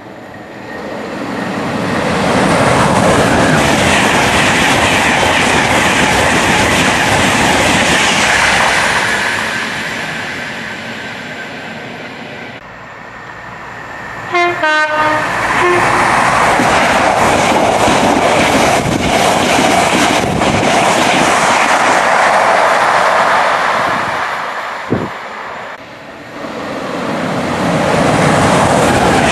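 Express passenger trains running through a station one after another, each a loud rising and fading rush of wheel and rail noise. About halfway through, a driver sounds the horn in a quick run of short two-tone notes.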